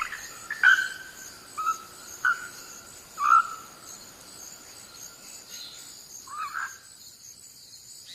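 Insects chirring steadily, with about six short, sharp bird calls over them.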